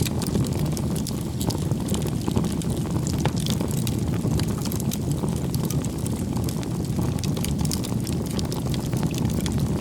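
Bonfire burning: a steady low roar of flames with frequent small crackles and pops from the burning wood.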